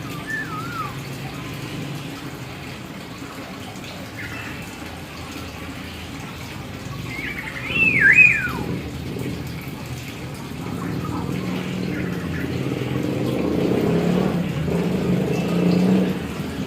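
Hill myna giving sharp whistled calls that slide up and down in pitch, the loudest about eight seconds in, over a steady background hiss. A lower, fuller sound builds through the last few seconds.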